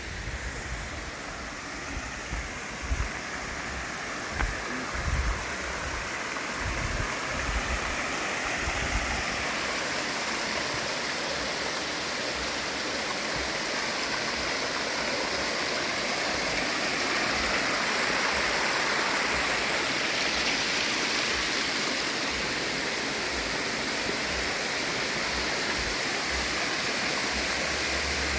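Steady rush of falling and running water from a waterfall, growing louder over the first half. Scattered low thumps sound during the first nine seconds or so.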